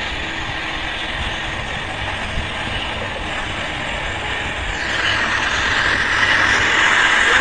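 Passenger train running at speed, heard through an open window: a steady rush of wheel and track noise that grows louder about five seconds in.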